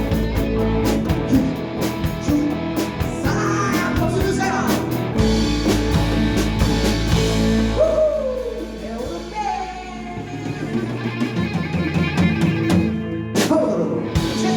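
Live rock band playing with a singing voice, electric guitars, bass and drum kit, the music thinning out toward the end.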